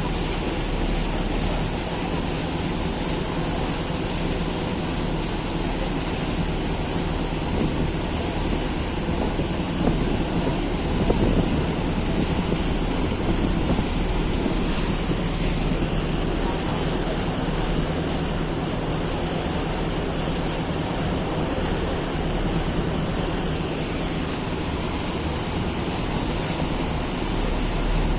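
Passenger ferry under way: a steady engine drone under the rush of water, with wind buffeting the microphone.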